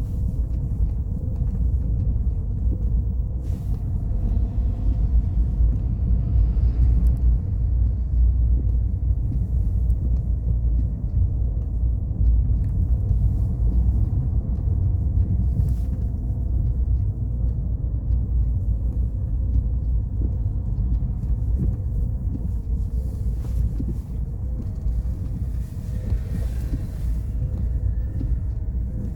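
Car driving: a steady low rumble of engine and road noise with a faint steady tone in it and a few light ticks now and then.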